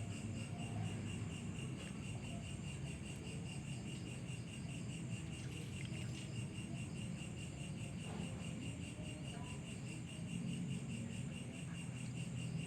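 Crickets trilling steadily in a fast, even pulse, over a low steady rumble.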